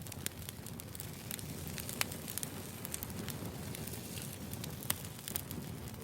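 Wood fire burning: a low steady rumble of flames with frequent sharp crackles and pops of firewood, two louder pops about two and five seconds in.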